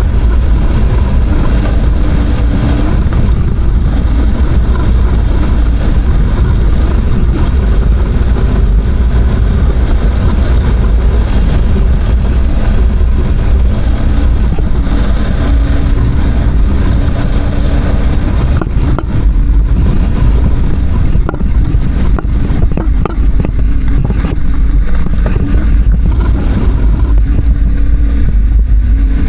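Adventure motorcycle engine running under throttle while riding, mostly covered by heavy wind buffeting on the microphone. There are a few sharp clicks about two-thirds of the way through.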